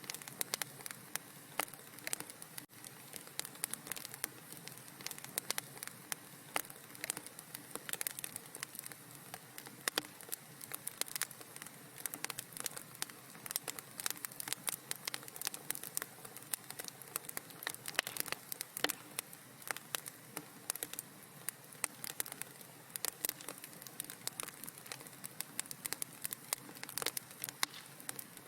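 Wood fire crackling in a fireplace: dense, irregular sharp pops and snaps over a steady soft hiss.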